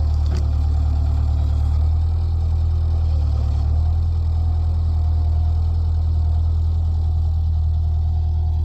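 An engine running steadily at a low, even idle, with one sharp knock shortly after the start.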